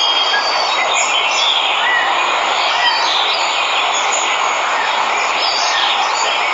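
Steady rushing of a waterfall, with jungle birds chirping in short calls over it.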